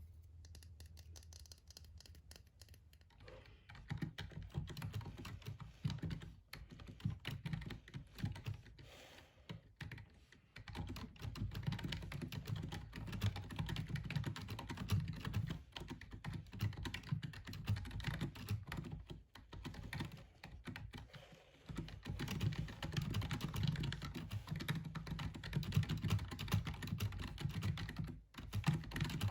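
Fast typing on a gaming keyboard: a dense run of key clicks that starts about four seconds in and goes on with a few short pauses.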